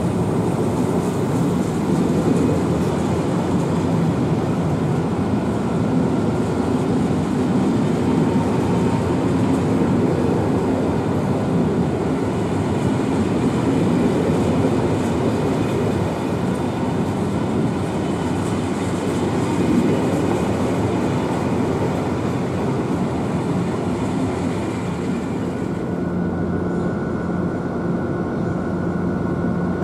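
Corail passenger coaches rolling past with a continuous rail and wheel noise. About 26 seconds in, the sound changes to the steadier, humming engine note of an SNCF BB 69400 diesel locomotive approaching slowly.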